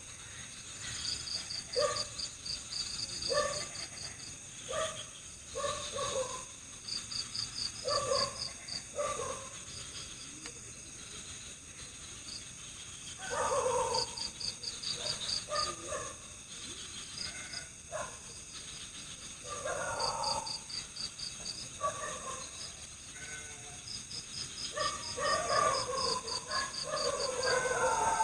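Night forest chorus: insects keep up a steady high hum, and a cricket-like trill of rapid chirps repeats every few seconds. Frogs give short croaking calls every second or two, bunching into a denser bout near the end.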